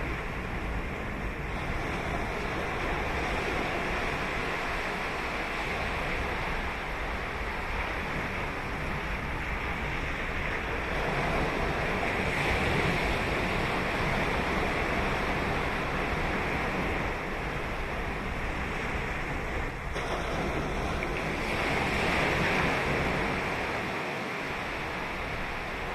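Ocean waves breaking and washing up on a sandy beach, a steady rush of surf that swells twice as larger breakers come in. Light wind on the microphone.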